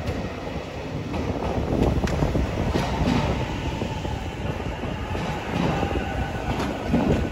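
JR Hokkaido 733-series electric train moving past along the platform: a steady rumble of wheels on rail, with scattered clicks as the wheels cross rail joints and a faint high steady tone in the middle.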